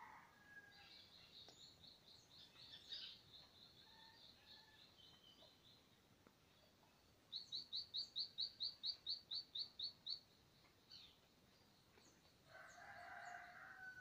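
Birds calling in forest. The loudest is a fast run of short, high, evenly repeated notes, about five a second, lasting about three seconds from about seven seconds in, over fainter high chirping. Near the end comes a lower, rougher call.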